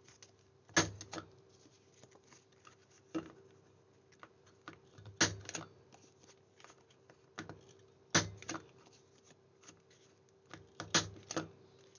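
Corner rounder punch snapping through card, about five sharp clicks a few seconds apart, some followed by a quieter second click, with light handling rustles of paper between.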